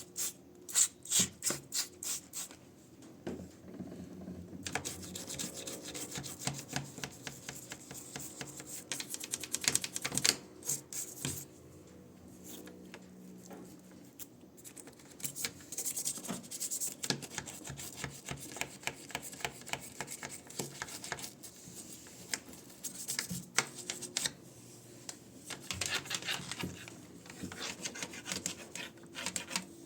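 Hand scrubbing: quick, irregular rubbing and scraping strokes in runs, with short pauses, typical of cleaning a washing machine by hand.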